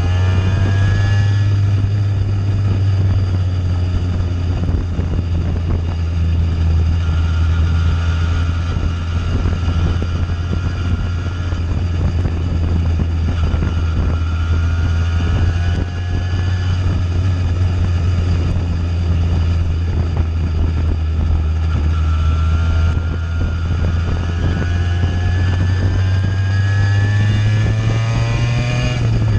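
Simson moped's two-stroke engine running through an aftermarket JW 85G+ exhaust while riding, holding a steady note with a pitch change near the start and rising again near the end.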